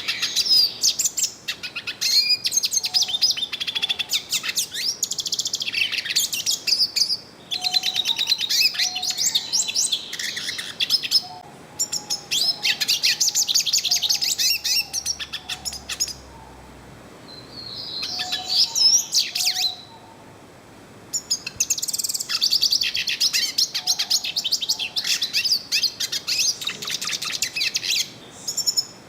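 Yellow-faced siskin (pintassilgo-do-nordeste) singing: long phrases of fast, high twittering and warbling with short pauses between them.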